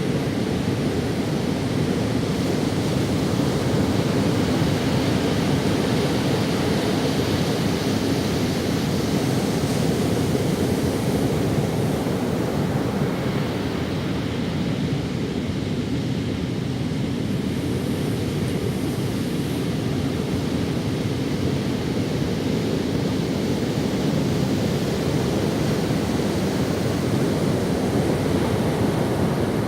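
Ocean waves breaking and washing up on a sandy beach, a steady rushing surf that swells and eases slowly over several seconds.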